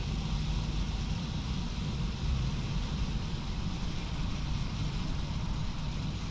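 A train of tank wagons rolling past: a steady low rumble with a hiss above it.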